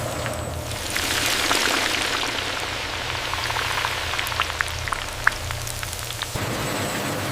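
Cicadas deep-frying in hot oil: a steady sizzling hiss with scattered sharp crackles and pops, which cuts off about six seconds in to a plainer hiss.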